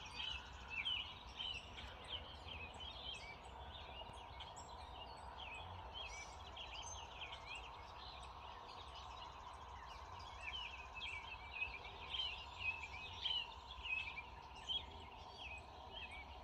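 Birds chirping in quick, overlapping short calls throughout, faint, over a low steady background rumble and a faint steady tone.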